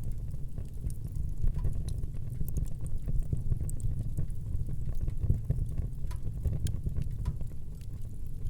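Wood fire in a fireplace burning, with scattered small crackles and pops over a steady low rumble of the flames.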